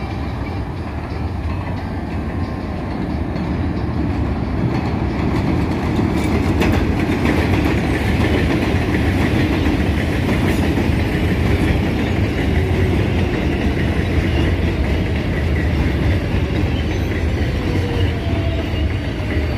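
R188 subway train rolling into the station on the elevated line: a loud rumble and clatter of wheels on rail that grows louder over the first several seconds and then holds steady. Thin wheel squeals come in near the end.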